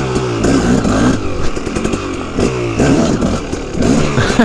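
KTM 300EXC two-stroke single-cylinder dirt bike engine running, its pitch rising and falling several times as the throttle is opened and closed.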